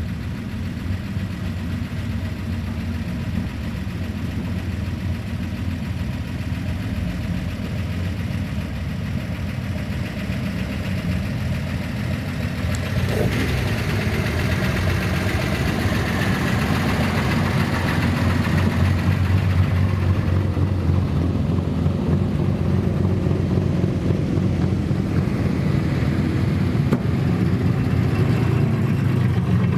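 Old cars' engines running at low speed, with a steady rumble. The sound grows louder about halfway through as an engine comes closer, its pitch rising and falling for a few seconds.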